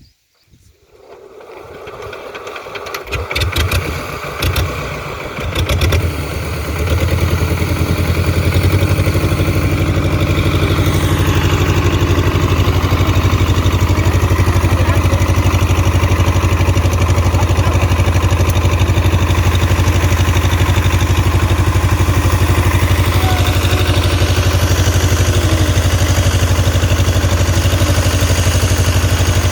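Two-cylinder Deutz 22 HP diesel engine, its valve tappets freshly adjusted, coming to life: the sound picks up about a second in, runs unevenly for a few seconds, then settles into loud, steady running.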